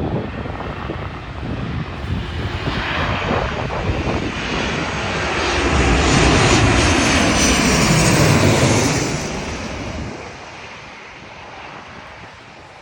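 Jet airliner passing low overhead: its engine noise swells to a peak over several seconds, falls in pitch as it goes by, and fades quickly about ten seconds in.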